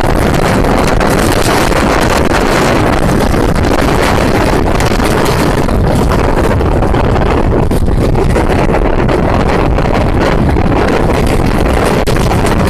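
Passenger train running, a loud steady rumble and rush of noise with wind buffeting the microphone.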